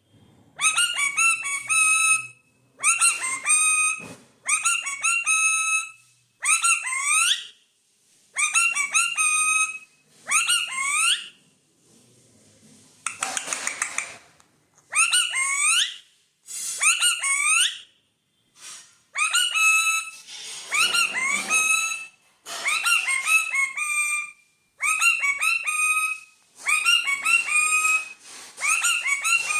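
A bird whistling a quick run of rising notes in short phrases, repeated about every two seconds, with a harsh, noisy call about halfway through and another later on.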